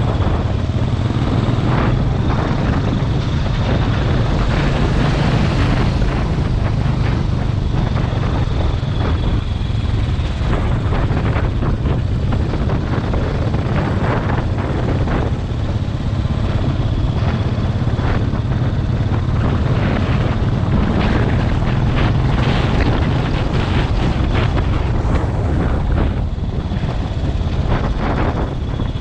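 Motorcycle running steadily on the move, a constant low engine rumble mixed with rushing noise.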